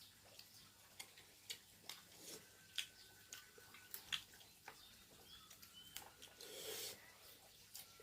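Faint, irregular light clicks and taps, with a short hiss about six and a half seconds in.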